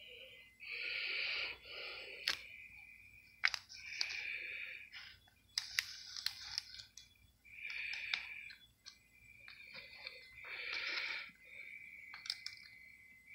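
Handling noise while a tarantula is coaxed out of its shipping container: soft rustling scrapes about every two to three seconds, with scattered sharp clicks and taps.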